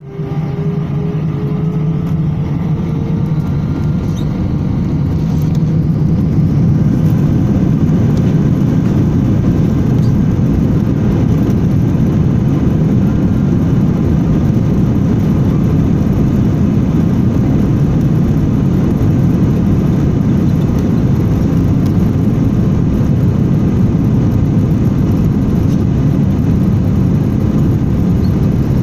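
Jet airliner's engines spooling up to takeoff thrust, heard inside the cabin: a whine rises in pitch over the first few seconds while the noise grows louder, then settles into a steady loud rumble through the takeoff run.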